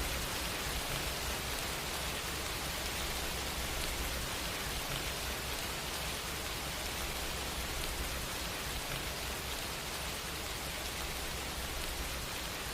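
Steady rain falling, an even hiss with a low rumble underneath and no change in strength.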